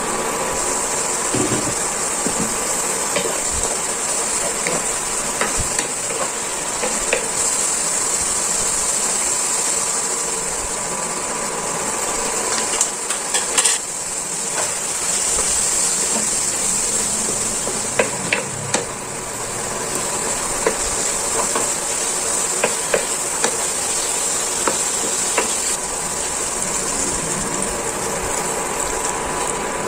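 Chicken pieces sizzling steadily in hot oil in a frying pan, with scattered clicks and knocks of a utensil against the pan, a few of them in quick clusters.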